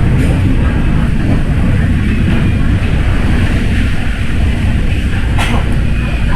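MTR M-Train electric multiple unit running at speed through an underground tunnel: a loud, steady low rumble of wheels on rail and running gear, with one short sharp click about five and a half seconds in.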